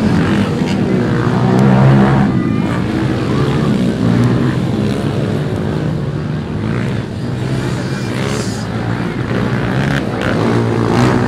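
Off-road dirt bike engines running and revving on a race track.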